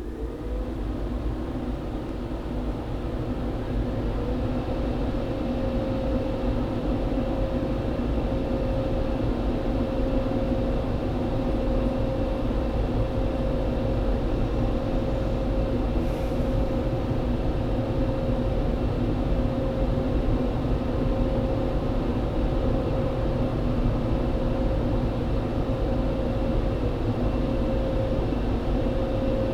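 Automatic car wash machine running: a steady mechanical drone with a whining tone and a rushing hiss. It spins up, rising in pitch and loudness, over the first few seconds, then holds steady.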